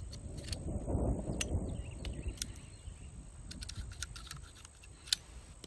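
Sharp, separate metallic clicks and handling of a Colt 1877-style double-action revolver being unloaded at half cock with the loading gate open, as the cylinder is turned and spent .38 Special cases are ejected. There is handling rustle in the first two seconds, and the clicks come a second or so apart.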